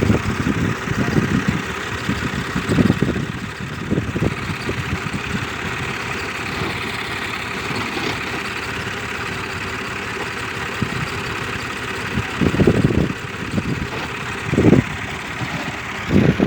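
Fiat 480 tractor's diesel engine running steadily, with a few brief, louder low surges.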